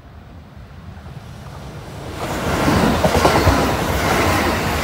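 Electric commuter train running past on the track, its wheels clattering over the rail joints. It grows loud about two seconds in.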